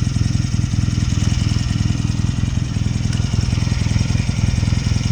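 1972 BSA Lightning's 650 cc parallel-twin engine running steadily at constant speed, an even low pulsing.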